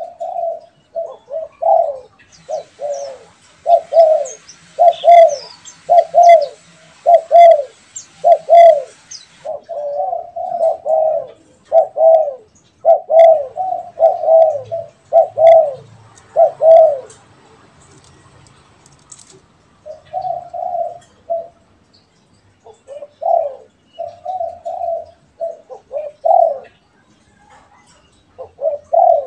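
Spotted doves (derkuku) cooing, two birds answering each other. Repeated low, arching coo notes run in a long series, break off about 17 s in, and resume after a pause of a few seconds. Fainter high chirps of a small bird sound above the coos early on.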